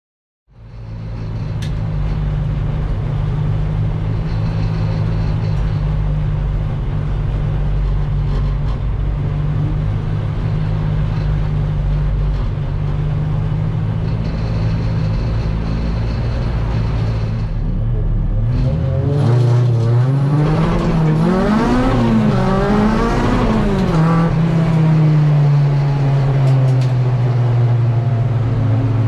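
A car engine running at a steady pitch with a low rumble. About 19 seconds in, its revs rise and fall several times over some five seconds, then settle back to a steady note.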